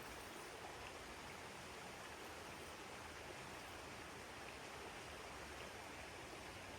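Steady rushing of a flowing river, an even wash of water noise with no distinct events.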